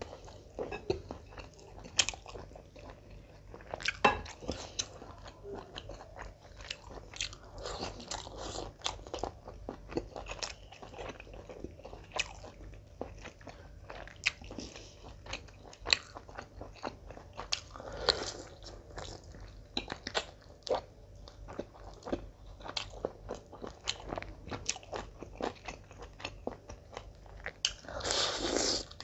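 Close-miked chewing of mutton biryani and roast chicken eaten by hand: a steady stream of short mouth clicks and smacks, with louder patches of chewing noise, the loudest near the end as another handful goes into the mouth.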